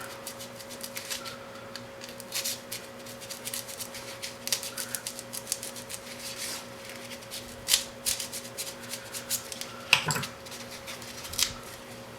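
Knife slicing through a piece of foam: scratchy cutting strokes with small clicks and taps, a few louder clicks near the end, over a steady faint hum.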